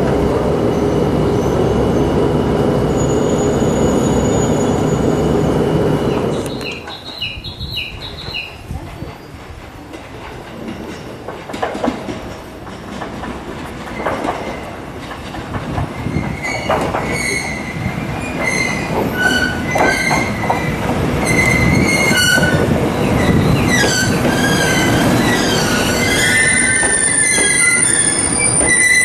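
A diesel train runs steadily with a held droning tone, then drops away about six seconds in. From about halfway, steel train wheels squeal on the rails in high, wavering tones that grow louder near the end.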